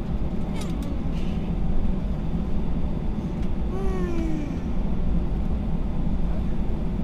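Steady low rumble of an Airbus A320's cabin as the airliner taxis. A short voice sound falling in pitch comes about four seconds in.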